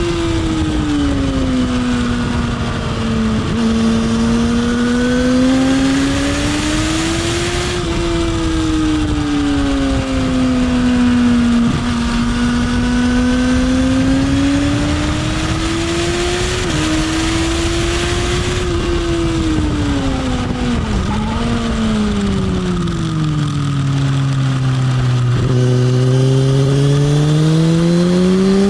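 Motorcycle engine heard from on board at track pace, its pitch falling as it slows into each corner and rising again as it accelerates out, several times over, under constant wind rush. Near the end the pitch drops lower, then climbs slowly through a long pull.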